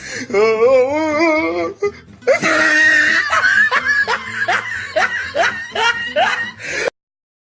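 Comedy laughter sound effects: a wavering, warbling laugh, then a hearty laugh of repeated falling 'ha's about half a second apart, which cuts off suddenly near the end.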